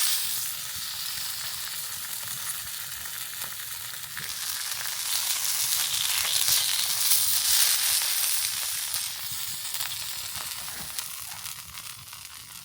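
Pork sizzling and spitting in a frying pan as ginger pork (shōgayaki) cooks; the sizzle swells louder midway and dies down near the end.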